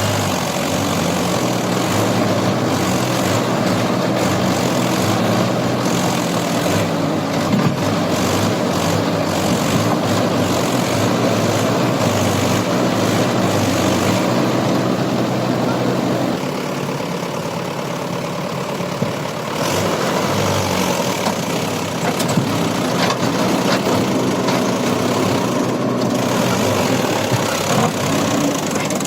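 Mahindra Yuvo tractor's diesel engine running steadily. Its level drops and its note changes for about three seconds about two-thirds of the way through, then picks back up.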